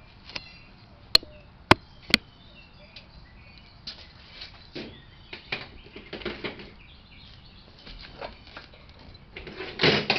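Three sharp clicks in quick succession about a second in, then scattered short rustles and knocks, with faint high chirps.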